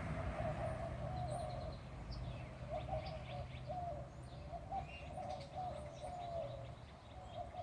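Birds calling: a low, wavering call in short repeated phrases, with scattered thin, high chirps over it.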